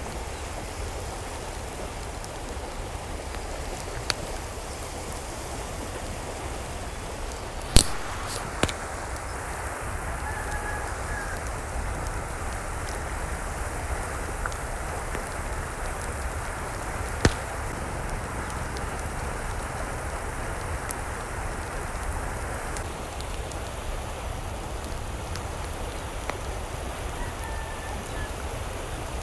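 Steady rushing water noise, with a few sharp clicks, the loudest about eight seconds in.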